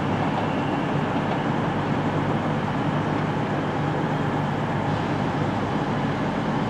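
Class 323 electric multiple unit pulling away and running off into a tunnel, its wheels and traction equipment making a steady running noise.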